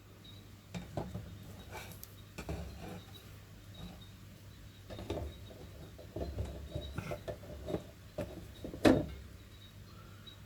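Small metal clock parts and tools being handled and set down: scattered clicks, light clinks and rubbing, with one sharper knock near the end.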